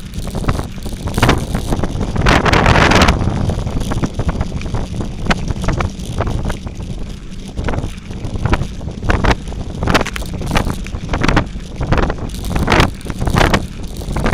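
Wind buffeting the microphone over a steady low rumble, with frequent short knocks and rattles from moving fast down a dirt forest trail.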